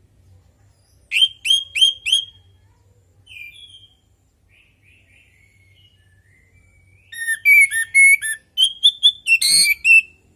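Orange-headed thrush singing: four loud, quick, down-slurred whistled notes, a few soft notes, then after a pause a longer rapid run of varied whistled and twittering notes, loudest near the end.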